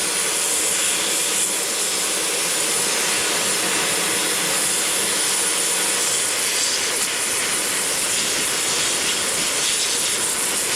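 Gas torch flame burning with a steady roaring hiss as it preheats a thick steel puck, so that the weld gets good penetration.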